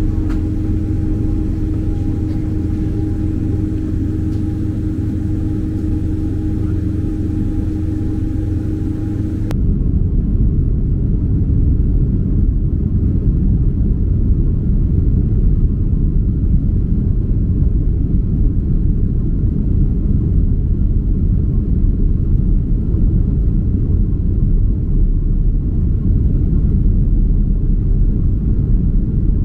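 Boeing 767-300 airliner heard from inside the cabin: a steady engine hum with a couple of held tones, then, about ten seconds in, a sudden change to a louder, deep rumble with no tones.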